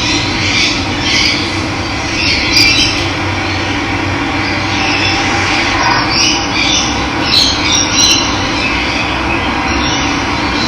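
Steady rush of running water with wild birds chirping over it, the calls clustering about two and a half seconds in and again between about six and eight seconds.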